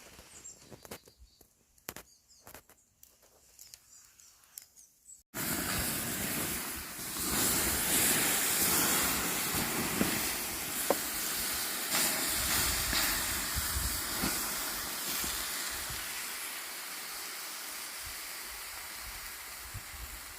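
Faint light clinks. About five seconds in, a sudden cut to a loud, steady hiss of marinated pork sizzling on a grill grate over charcoal, slowly easing off.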